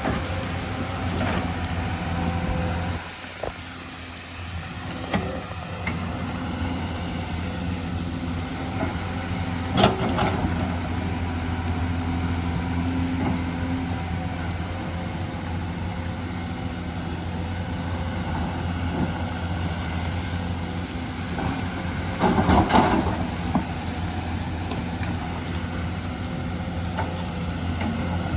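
Hyundai excavator's diesel engine running steadily, easing off briefly a few seconds in, with a sharp knock about ten seconds in and a short burst of clattering knocks a little past twenty seconds.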